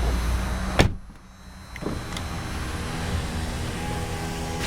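2008 Chevrolet Malibu LTZ V6 idling, then switched off with a click about a second in, its low hum cutting out. After a short lull, a small electric motor in the car hums steadily until a click near the end.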